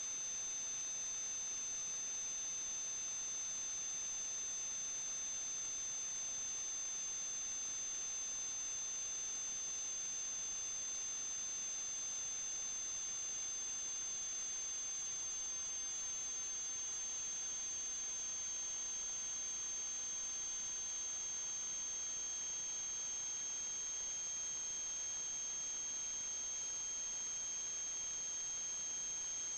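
Steady electronic hiss with several thin high-pitched whine tones, one of them slowly sinking in pitch: electrical noise from the sewer inspection camera's recording equipment.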